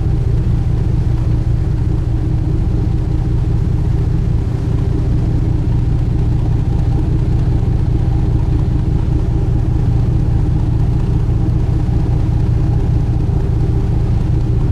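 Sightseeing boat's engine running at a steady cruising drone, heard on board as a constant low rumble with a few steady tones over it.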